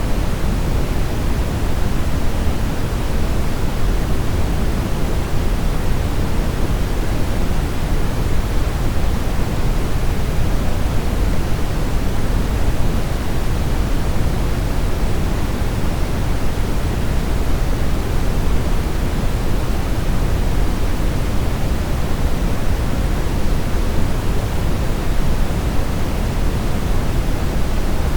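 Steady brown noise: a deep, even rushing hiss, strongest in the low end and falling away toward the highs, with no changes.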